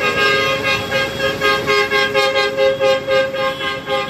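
Two-tone vehicle horn sounding from a passing parade vehicle: held for a moment, then tooted in quick short blasts, about three a second.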